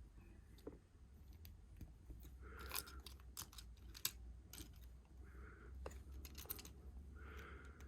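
Faint clicks and light rattling of plastic Lego bricks being handled and pressed together, a few sharp ticks spread through, over a low steady hum.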